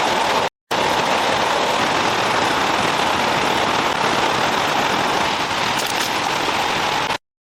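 Steady rain falling, a dense even hiss. It drops out for a moment about half a second in and stops abruptly just before the end.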